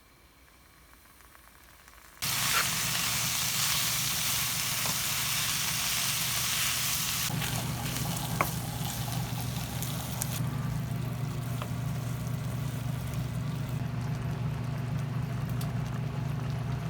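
Food sizzling in a hot pan, starting suddenly about two seconds in: loudest for the first several seconds, then settling to a lighter sizzle, over a steady low hum.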